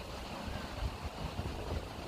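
Wind gusting across the microphone, a low buffeting rumble that rises and falls over a steady rushing hiss.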